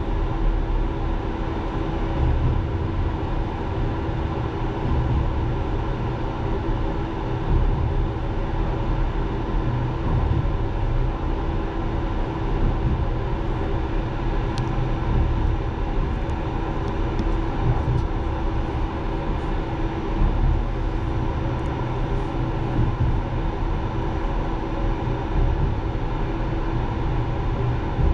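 Passenger train running, heard from inside the tail coach: a steady low rumble of wheels on rail with a constant hum, and a few faint ticks about halfway through.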